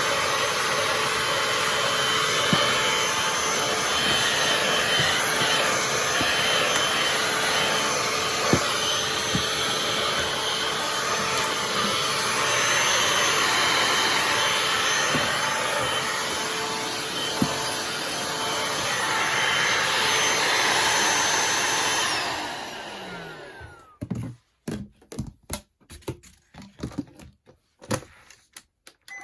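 Bosch 18V cordless handheld vacuum cleaner running steadily with a high motor whine and a few small ticks. About three-quarters of the way through it is switched off and winds down with a falling whine, followed by a run of sharp clicks and knocks. It starts up again at the very end.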